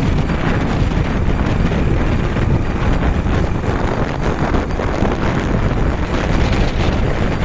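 Wind buffeting the microphone: a loud, steady rushing noise with a heavy low rumble that flutters from moment to moment.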